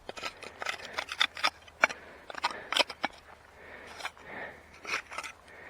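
Digging in soil, with irregular sharp crunches and scrapes as the tool cuts into the ground.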